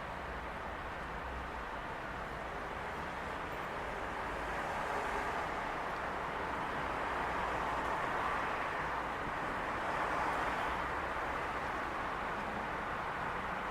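Steady outdoor background noise with no fireworks bursts, swelling a little from about four seconds in.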